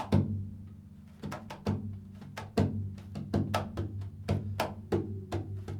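Improvised music: sharp percussion strikes over a steady low drone, sparse at first and coming more often from about a second and a half in.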